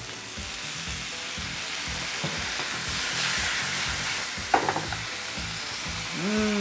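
Sliced zucchini sizzling in a nonstick frying pan over medium-high heat, with soy sauce just poured over it; the hiss swells toward the middle. About four and a half seconds in, a wooden spoon clicks a few times against the pan as it stirs.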